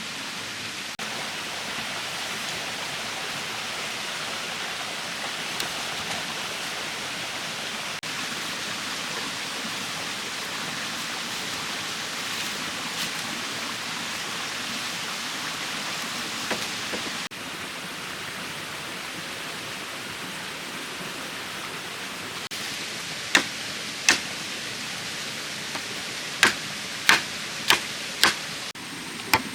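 Steady even hiss of outdoor ambience, then in the last few seconds about seven sharp knocks at an irregular pace, from a tool striking bamboo.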